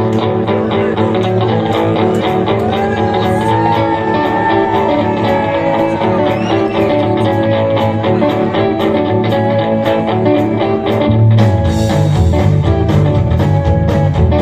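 Instrumental intro of a rock and roll song: a guitar lead line with bent notes over bass and a steady drum beat, with the bass and drums coming in heavier about eleven seconds in.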